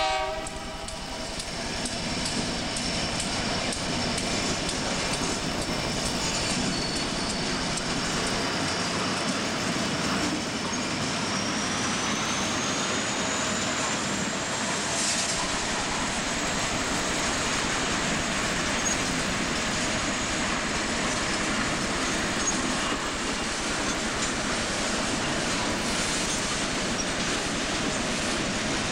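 Freight train cars rolling past: a steady rumble of wheels on rail with a thin, high wheel squeal that glides up in pitch partway through and then holds. The locomotive horn cuts off at the very start.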